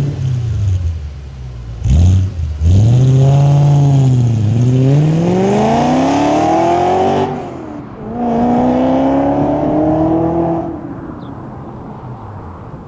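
Audi S4's 4.2-litre V8 through JHM headers and a Milltek non-resonated exhaust, accelerating hard. A quick throttle blip about two seconds in, then a long pull with rising pitch, a drop at a gear change just past halfway, a second rising pull, and the sound fades near the end.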